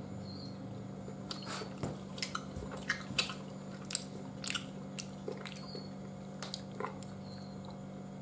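A man chewing a bite of yellow Turkish delight roll: irregular short mouth clicks starting about a second in, over a faint steady hum.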